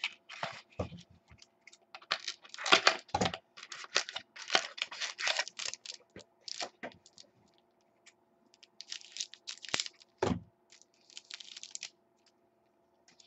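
Trading card pack being torn open and its cards handled: irregular tearing, crinkling and rustling of the wrapper, with clicks and a few dull knocks as cards and packaging are set down.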